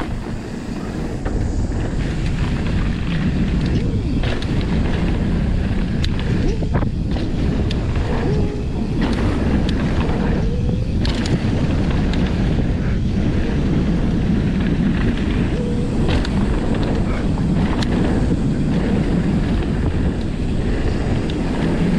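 Steady wind rush buffeting the microphone during a mountain bike descent, with the bike knocking and rattling over bumps in the trail.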